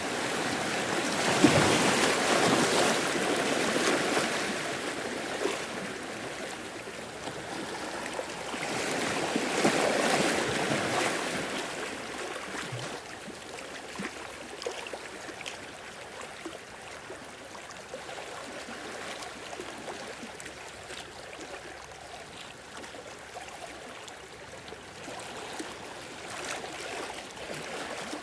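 Sea waves washing in. Two larger surges come in near the start and about ten seconds in, then a lower, steady wash.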